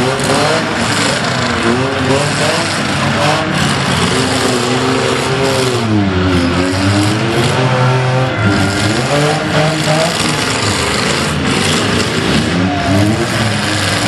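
Several demolition derby cars' engines revving hard at once, their pitch repeatedly climbing and falling as the cars push and manoeuvre on the dirt, over a steady mix of engine and crowd noise.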